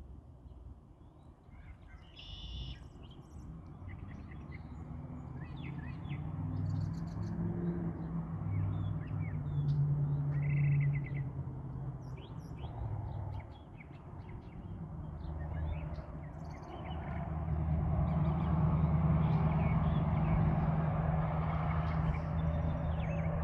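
Songbirds chirping and trilling in short, scattered calls over a low, steady rumble that grows louder about two-thirds of the way through.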